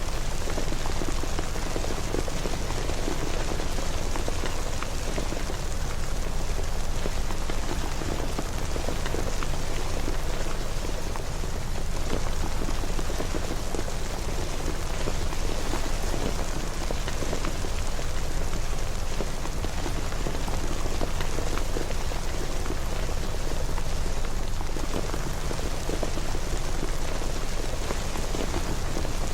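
Steady rain falling on a surface, an even hiss with fine scattered drop patter.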